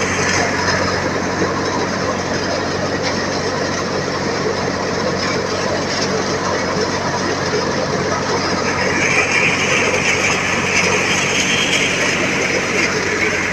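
A multicrop thresher threshing chickpeas, driven by a John Deere 5050D tractor's three-cylinder diesel at a steady high rpm: a dense, continuous mechanical churn over the engine's drone. A brighter hiss swells from about nine seconds in and eases off near the end.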